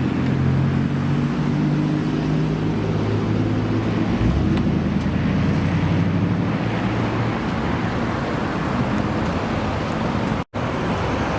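American V8 engine running with a steady, deep rumble that shifts in pitch slightly about four seconds in and grows rougher later, broken by a split-second gap near the end.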